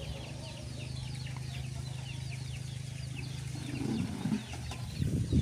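Birds chirping in short falling notes, several a second, over a steady low hum. Near the end come a few louder low bursts of noise.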